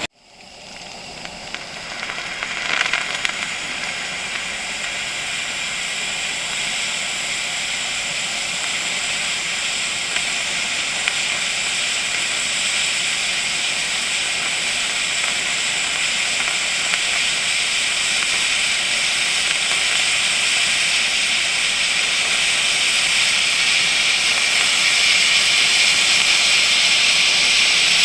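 Steam jetting from a small homemade boiler in a steady hiss. It swells over the first few seconds and then grows slowly louder as pressure builds.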